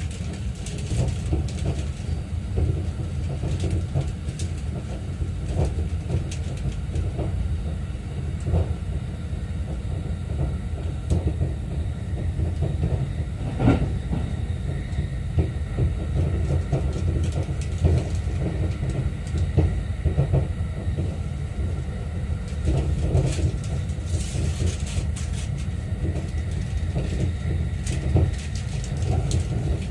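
Running noise of a JR East E231-series train heard from the lower deck of its double-deck Green car at speed. There is a steady low rumble of wheels on rail, with scattered clicks and knocks and a sharper knock about halfway through.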